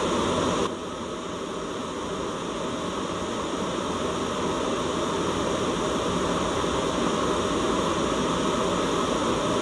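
Steady hiss of a white-noise track. Its level drops suddenly under a second in, then slowly climbs back over the next few seconds.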